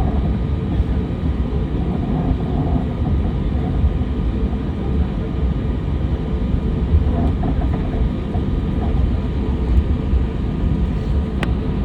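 Steady low rumble of an airliner cabin: engine and airframe noise heard from a passenger seat, with faint murmuring voices and a single sharp click near the end.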